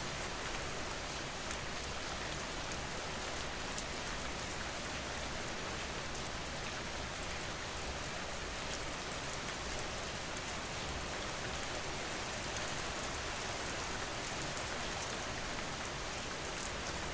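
Steady rain falling on a surface, a continuous even hiss with fine patter of individual drops.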